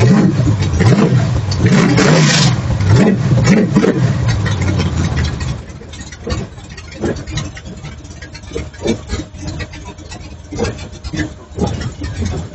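An engine revving up and down for about five seconds, then dropping away to quieter scattered knocks and clicks.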